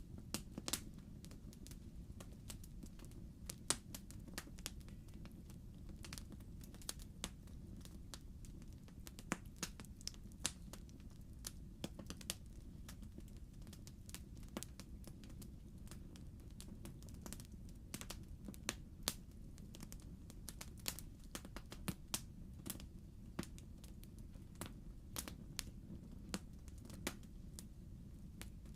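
Wood logs burning in a fireplace, crackling with irregular sharp pops and snaps over a steady low rumble of the fire.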